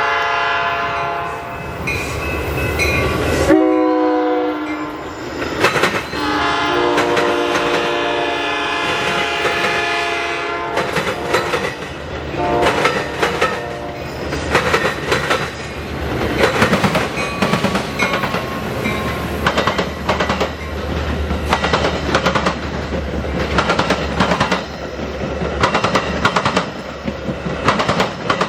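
A diesel locomotive's horn sounds several long chords as a train passes, the chord dropping in pitch about three and a half seconds in. Then the wheels clack rhythmically over the rail joints as the cars roll by, over a low, steady engine rumble.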